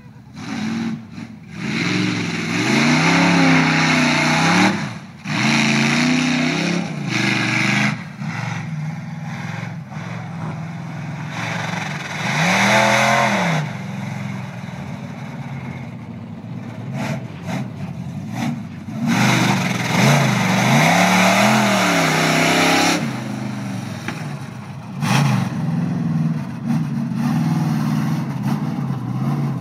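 Top truck challenge truck's engine revving hard in repeated bursts, its pitch climbing and dropping over and over as it works through the course. The biggest surges come a couple of seconds in, near the middle and about two-thirds of the way through.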